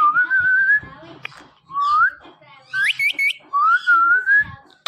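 Ring-necked parakeet whistling a learned phrase twice over: a rising whistle, a run of three quick rising chirps, then a wavering held whistle.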